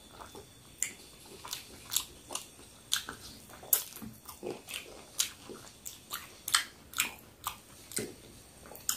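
Close-up eating sounds of a person chewing juicy peri peri chicken: a run of sharp, wet mouth clicks and smacks, about two a second.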